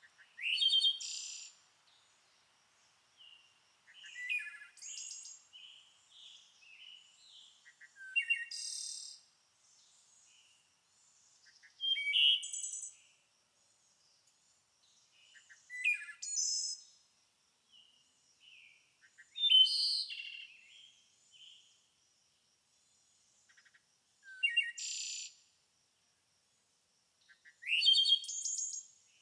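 Songbird singing in short, high-pitched phrases, one about every four seconds, several opening with a quick upward sweep, with softer chirps in between.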